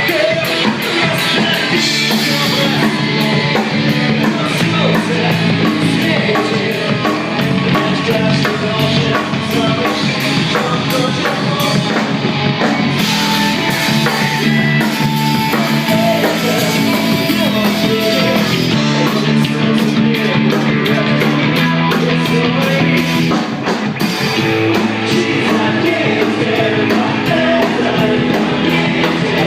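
Rock band playing live, with drum kit and singing over a dense, steady wall of music.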